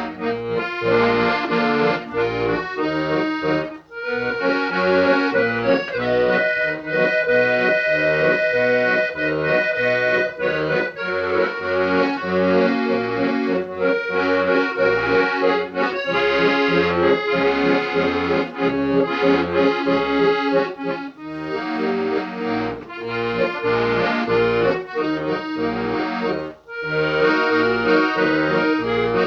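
Accordion playing a traditional-style instrumental melody over sustained chords, with short pauses between phrases.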